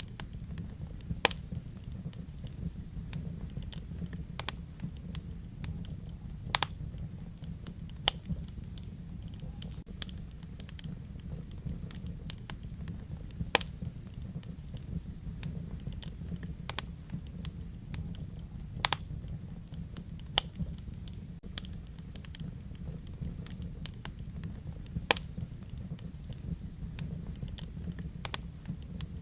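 Wood fire burning in a fireplace: a steady low rumble of the flames with irregular crackles and, every few seconds, a sharper pop.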